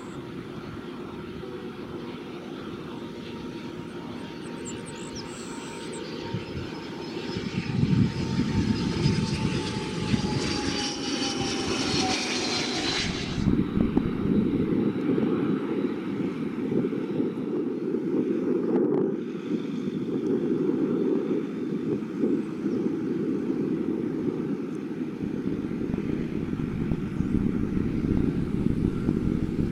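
Jet aircraft engines running: a low rumble with a thin whine that slowly falls in pitch. About halfway through the whine cuts off abruptly, leaving a louder, rougher engine rumble.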